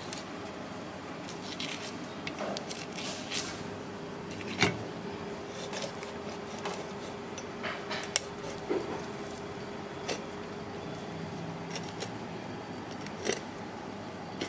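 Kitchen ambience: scattered short clinks and clicks of utensils and dishes over a steady background hum, the loudest clinks about four and a half and eight seconds in.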